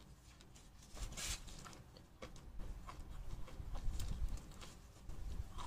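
Close-up chewing and mouth sounds from eating roast chicken: irregular small wet clicks and soft knocks, with a brief rustle of plastic food gloves about a second in.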